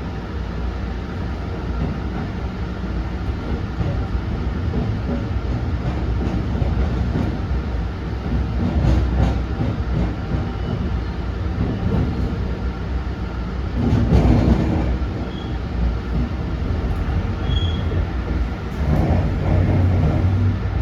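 Tsukuba Express electric commuter train running at speed, heard from inside the passenger car: a steady rumble of wheels and running gear that swells louder a few times.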